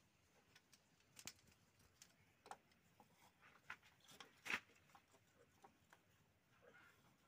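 Near silence with a scattered handful of faint clicks and taps, the sharpest about four and a half seconds in.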